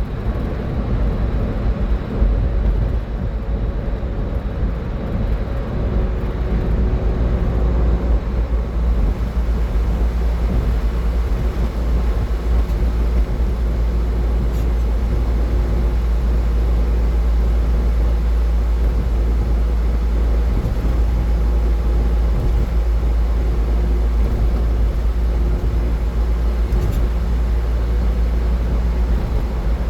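Steady road noise of a car driving at highway speed: a continuous low rumble with tyre hiss over it.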